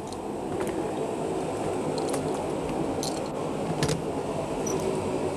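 Steady rumble of a train carriage in motion, growing slightly louder, with a few scattered sharp clicks and rattles.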